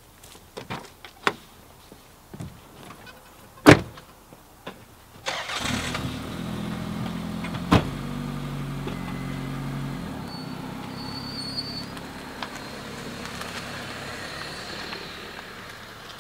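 Light clicks and a loud door-like thud, then a car engine cranks and starts about five seconds in and settles into a steady idle. Another sharp thud comes a couple of seconds after the start.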